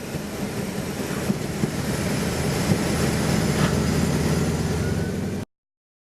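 An engine running steadily, a low rumble under a noisy haze, that cuts off suddenly about five seconds in.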